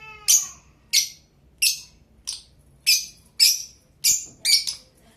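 Blue Fischer's lovebird giving a run of about nine short, shrill chirps, roughly two a second.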